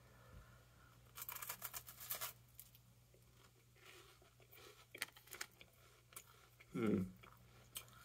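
A crunchy chocolate-filled wafer being bitten and chewed. A quick run of faint, crisp crunches comes about a second in, then scattered crunches, with a brief voice sound from the eater near the end.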